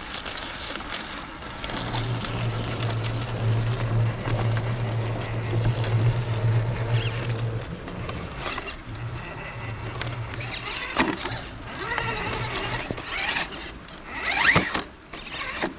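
Electric RC rock crawler driving on the trail, its motor and gear drive running with a steady low hum that fades about halfway through. Scattered clicks and scrapes come from the truck working over the terrain, louder near the end.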